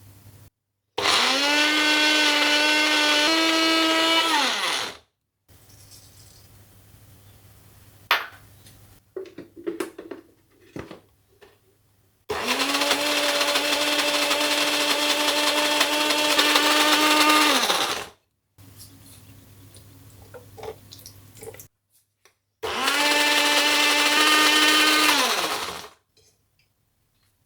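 Electric kitchen blender run three times for a few seconds each, its motor holding a steady high hum that winds down in pitch each time it is switched off. Between the first and second runs there are light knocks and clicks.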